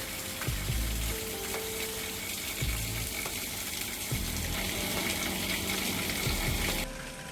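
Steady hiss with scattered low thumps; the hiss cuts off abruptly near the end.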